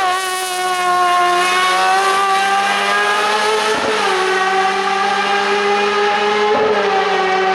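Hill-climb race car engine running hard at high revs, with short dips in pitch about four seconds in and again near the end as the driver changes gear.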